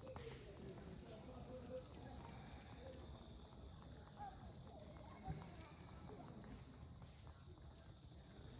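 Insects chirping in repeated trains of quick, even pulses, with a faint campfire crackle and one sharper pop of burning wood about five seconds in. Children's voices are faintly audible in the distance.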